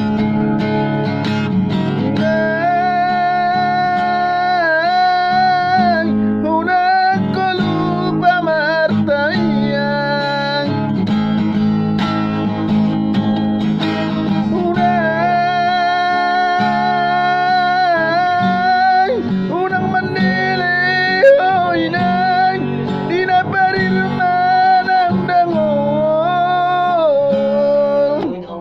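A voice singing a slow melody with long held notes that waver and bend, over guitar accompaniment.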